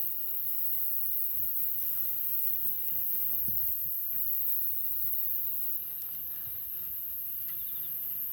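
Pig's feet grilling over a wood campfire: a steady high hiss with a few faint crackles and pops.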